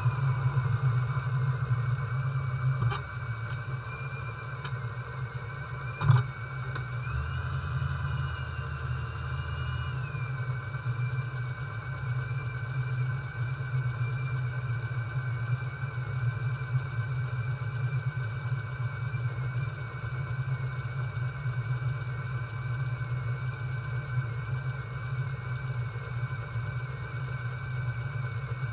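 Car engine idling steadily, with a single sharp knock about six seconds in.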